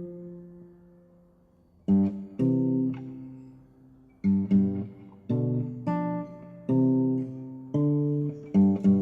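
Classical guitar music: plucked notes and chords that ring out and fade, with a long decaying chord at the start and the notes coming closer together toward the end.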